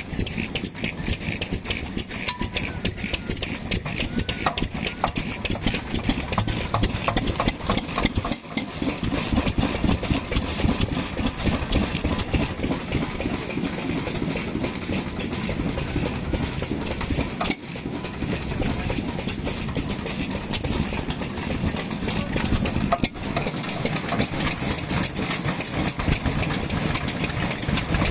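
Old Japanese stationary kerosene engines (hatsudoki) running at a steady idle, a continuous rapid run of firing beats.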